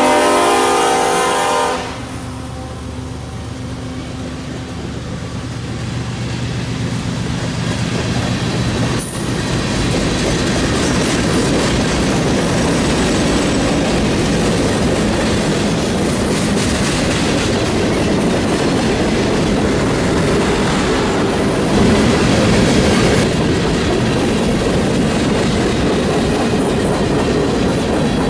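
Freight train diesel locomotive's air horn blowing, cutting off about two seconds in. The locomotive's engine drone follows as it passes, and from about nine seconds on the freight cars roll by with steady wheel clickety-clack on the rails.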